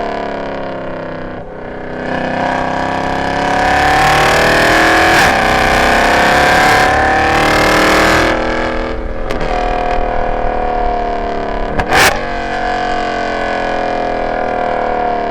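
Mercedes C63 AMG's M156 6.2-litre V8 with long-tube headers and no catalytic converters, running loud at track pace: the note falls, then climbs under hard acceleration for several seconds, drops off, and settles into a slowly falling note. A single sharp crack about 12 seconds in.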